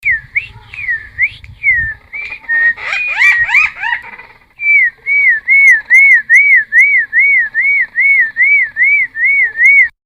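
A cucak timor singing loud whistled notes. First come a few dipping notes, then a jumble of varied rising phrases, and after a short pause a fast run of about a dozen evenly repeated arched whistles that stops suddenly near the end.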